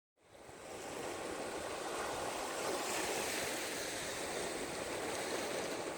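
Steady rushing noise that fades in over the first second and then holds even, with no voice or tone in it.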